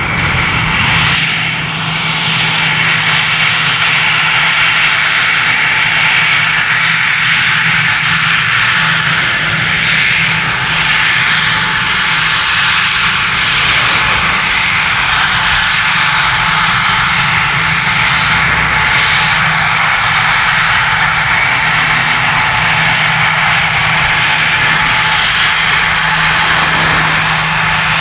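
Fixed-wing aircraft engines running loud and steady, a constant low hum under a dense high-pitched rush.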